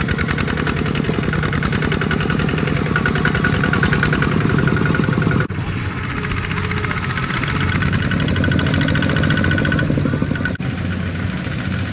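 Small Kubota tractor's diesel engine running steadily with a rapid, even clatter. It breaks off for an instant about five and a half seconds in, then carries on.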